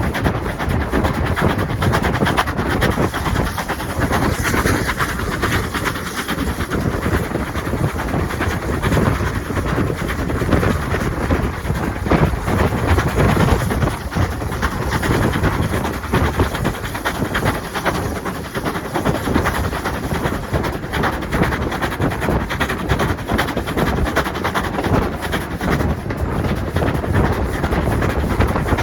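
Railway train running along the track: a steady, loud rumble of wheels on rail with clicking and clatter from the rail joints throughout.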